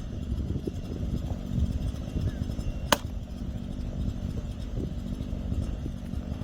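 A single sharp strike of an axe splitting firewood, about three seconds in, over a steady low rumble of a small engine running.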